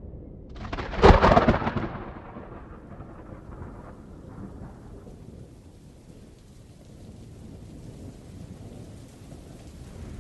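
Thunderstorm: a sharp thunderclap about a second in, its rumble dying away over the next two seconds or so, then steady rain.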